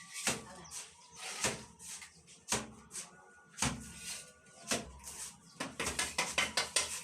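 Plastering trowel work with cement mortar: sharp slaps and knocks about once a second, coming quicker near the end.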